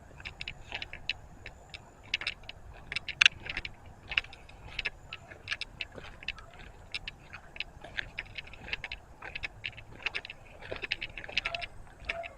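Footsteps crunching over gravel and debris, a quick irregular run of crisp clicks and crunches several times a second.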